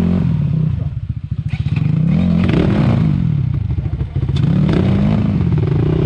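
Dirt bike engine revving up and down, its pitch rising and falling about three times, as the bike works at a steep enduro obstacle.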